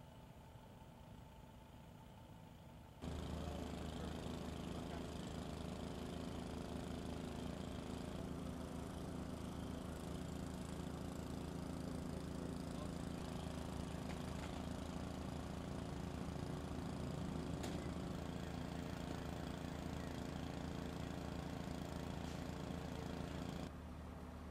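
An engine idling steadily, starting abruptly about three seconds in and cutting off abruptly near the end.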